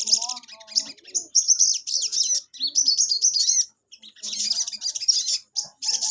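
A sogon (sunbird) singing in full voice, a fast, high-pitched twittering chatter of tumbling trills and chirps. It comes in several bursts broken by short pauses.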